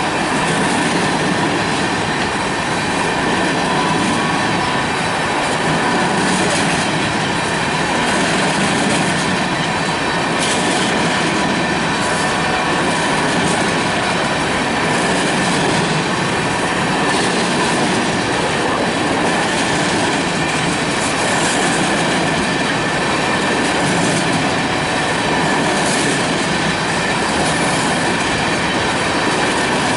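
Freight train cars rolling steadily through a grade crossing, wheels clacking on the rail joints, with high-pitched Safetran Type 3 electronic crossing bells ringing.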